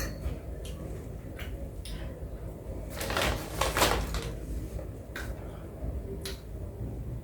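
Small objects being handled: a few light clicks and knocks, with a short rustling, crackling burst about three seconds in that is the loudest part.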